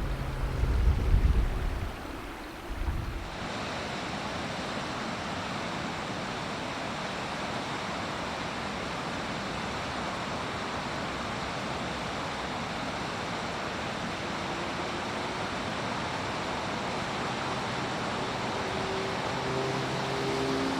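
Steady rush of fast-flowing river water, an even noise with no rhythm. For about the first three seconds a low rumble of wind on the microphone covers it, then the sound changes abruptly to the even water noise.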